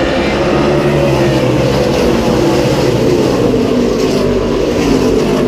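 A field of NASCAR Camping World Truck Series V8 race trucks under full throttle, accelerating past on a restart with many engines at once. Several engine notes slide down in pitch as the trucks go by.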